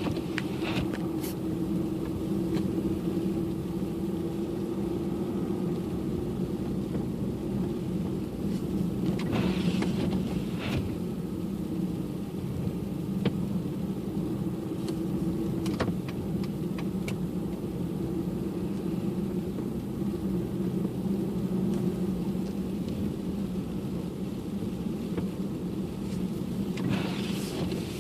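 Car driving on a snowy road: a steady low engine and road drone, with a few faint clicks and two brief hissing swells, about ten seconds in and near the end.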